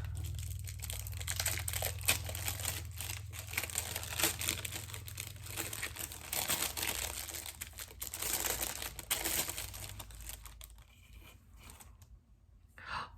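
Wrapper being pulled off a bar of handmade soap: an irregular crackly rustling of handled packaging that thins out and mostly stops after about eleven seconds.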